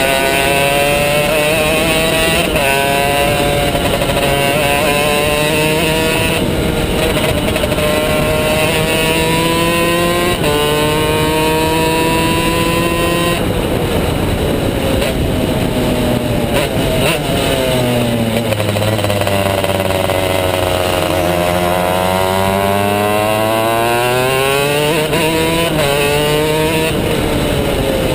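Two-stroke superkart engine at full throttle. The revs climb and drop back through several gear changes, then fall away for a corner about two-thirds of the way in and build up again.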